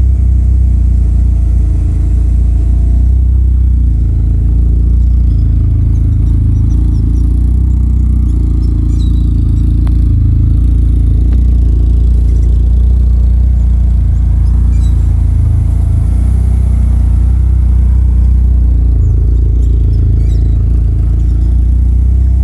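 Toyota Corolla AE92's four-cylinder 4A-GE/7A-GE engine on individual throttle bodies, idling steadily with a deep, even rumble.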